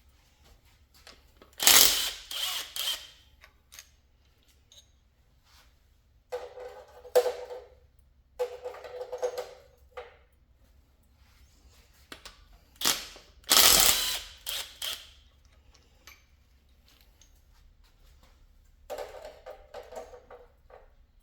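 Hand ratchet clicking on the rocker arm bolts of a Ford 3.0L V6 during teardown, with loose metal rocker parts clinking and clanking as they are lifted off and set down. It comes in four short spells of work, each with quiet between; the two loudest clanks are about two seconds in and about fourteen seconds in.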